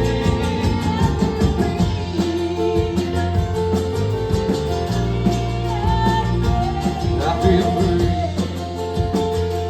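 Live band playing an instrumental passage: guitar lines with bending notes over bass and a steady drum beat.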